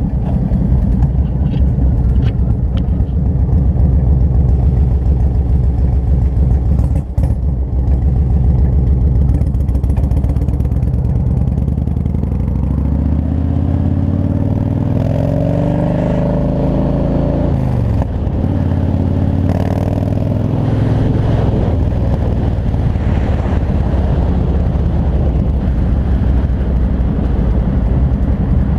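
2003 Yamaha Road Star's air-cooled V-twin engine running under way. Its note rises as the bike accelerates about halfway through, drops sharply at a gear change, then climbs again.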